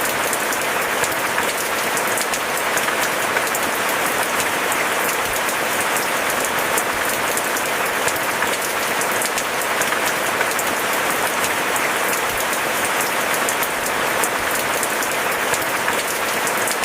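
Steady heavy rain: a dense, even hiss sprinkled with many sharp, close drop ticks, with no thunder.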